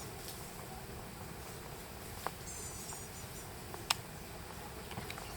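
Quiet outdoor background with a faint low rumble. There are a few faint high chirps about two and a half seconds in, and two small sharp clicks: one just past two seconds and a louder one near four seconds.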